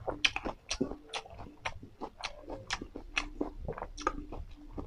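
Close-miked chewing of a mouthful of food: wet mouth smacks and clicks, about three a second.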